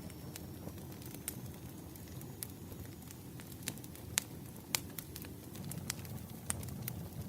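Wood fire burning: a steady low rumble of flames with irregular sharp pops and crackles from the burning firewood, a few louder pops a little past the middle.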